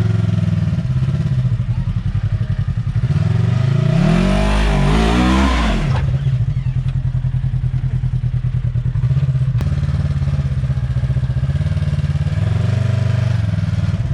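Side-by-side UTV engine running at low revs, climbing in a rev about three seconds in and cutting back sharply about six seconds in to a steady low run. A smaller rise in revs comes near the end.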